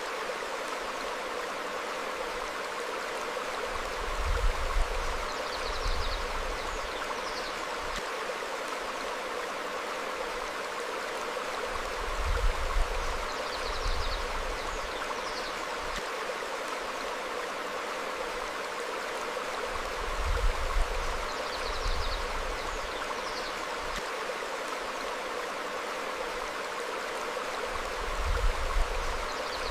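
Small stream flowing over rocks, a steady rushing babble. Short high bird chirps come in a few times. A low rumble swells briefly about every eight seconds and is the loudest thing heard.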